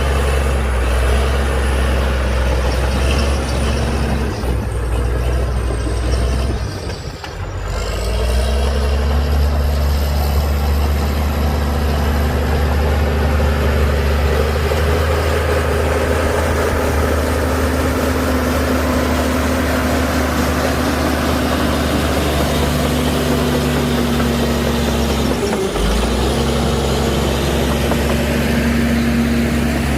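Heavy diesel engine of earthmoving machinery running steadily, with a high whine above the engine note. The engine note drops away briefly about seven seconds in and again a few seconds before the end, then picks back up at a changed pitch.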